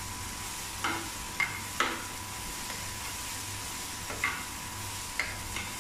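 Black chickpeas (kadala) and onion sizzling in hot oil in a frying pan, with a metal spoon stirring them. The spoon scrapes and knocks against the pan about six times.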